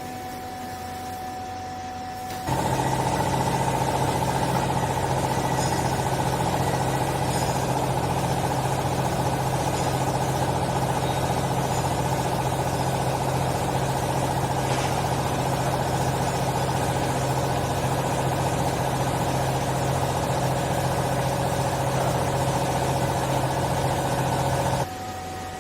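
Hydraulic clothes baler's electric motor and pump running steadily with a constant hum, switching on abruptly a couple of seconds in and cutting off abruptly near the end.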